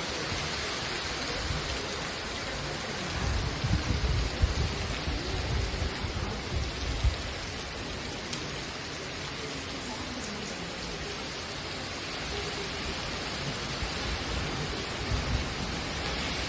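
Heavy rain pouring steadily in strong wind, with low rumbling gusts that swell for a few seconds starting about three seconds in and again near the end.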